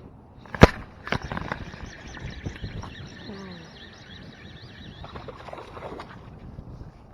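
A sharp click, then a Piscifun Torrent baitcasting reel being cranked for about five seconds, stopping suddenly.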